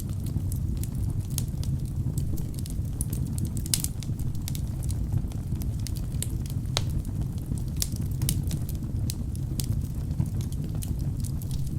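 Wood fire burning in a fireplace: logs crackling with frequent irregular sharp pops over a steady low rush of the flames.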